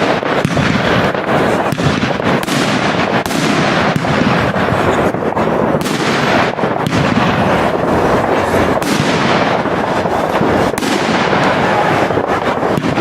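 Large professional fireworks display: a dense, unbroken barrage of shell bursts and crackle, several bangs a second over a continuous crackling hiss.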